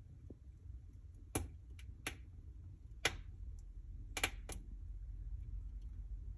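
Wood fire burning in a fireplace, crackling with about six sharp pops over a few seconds above a low, steady rumble.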